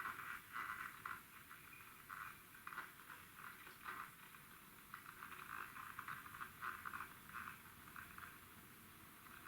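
IRIT IR 1360 electric kettle heating water toward the boil: a faint, irregular crackling hiss as steam bubbles form and collapse in the water.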